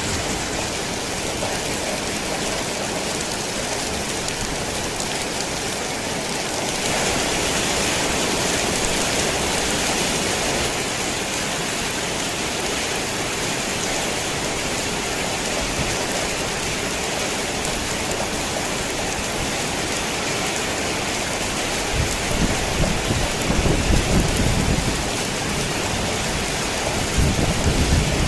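Heavy rain falling on a tin roof, getting a little heavier about a quarter of the way in. Thunder rumbles twice near the end.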